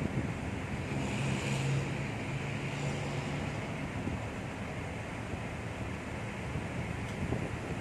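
Steady low engine hum with wind noise on the microphone.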